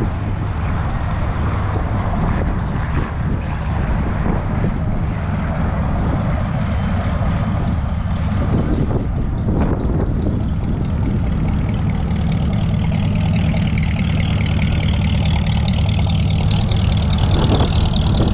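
A car engine running steadily at low revs, with a high whine that slowly rises in pitch over the last several seconds.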